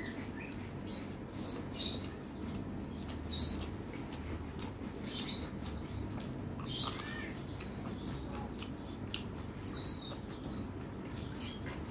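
Close-miked eating sounds: wet chewing, smacks and mouth clicks, with fingers squishing and mixing rice and fried potato on a steel plate. These come as short, scattered clicks over a steady low hum.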